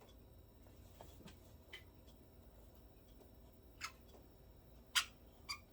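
Budgerigars giving a few short, sharp chirps, the loudest about five seconds in.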